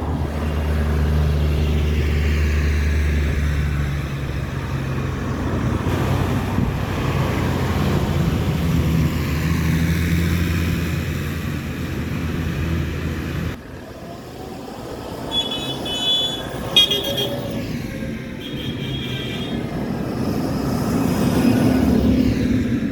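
Heavy vehicle engines running as they pass close by, the pitch falling as each goes past. After an abrupt break, a horn toots several times in short blasts, then another engine draws near.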